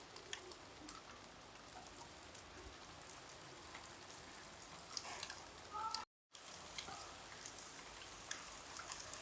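Light rain falling, a faint steady hiss with scattered individual drops clicking close by. The sound cuts out completely for a moment about six seconds in.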